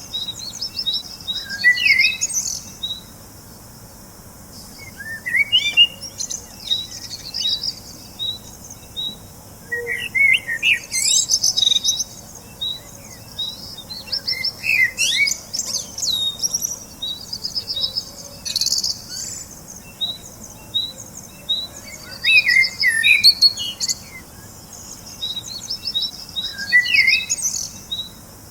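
Small birds chirping and singing: bursts of quick high notes and short trills every few seconds, with rows of short evenly spaced peeps in between.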